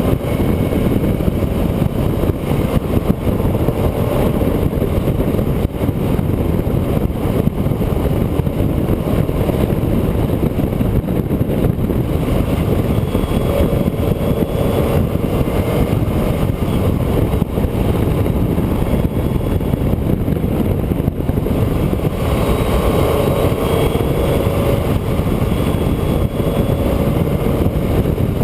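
Steady engine and road noise from a vehicle being driven along a road, with the engine note swelling several times as it pulls harder.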